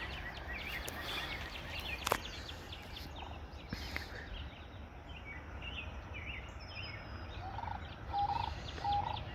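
Songbirds chirping over faint outdoor background, then near the end a large bird calling in a run of about six short, evenly spaced notes, which the watcher takes for a mating call.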